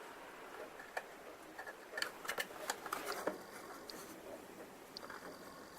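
Faint, irregular scratching and small ticks of hand work on a plastic scale-model airframe, with a cluster of sharper scrapes about two to three seconds in.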